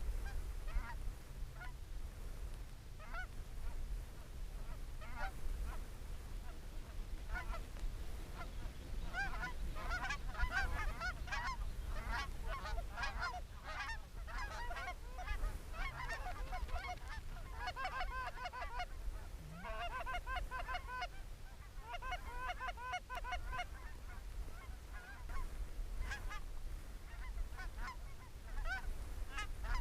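Canada geese honking. Scattered single honks build into dense, overlapping calling of many birds through the middle, then thin out again, over a steady low wind rumble.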